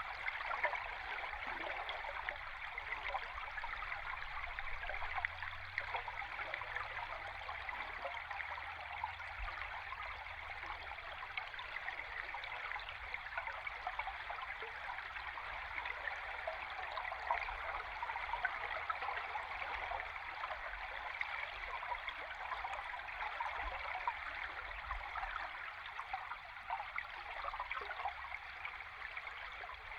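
Flowing river water heard underwater: a steady, even rush of stream water with fine trickling detail and no pauses.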